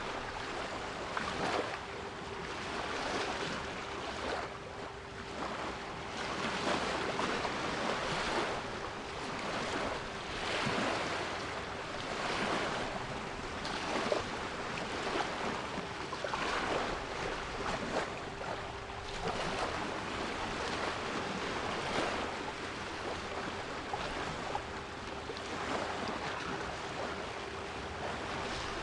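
Sea waves washing in and drawing back in repeated surges. Under them runs a steady 396 Hz pure tone.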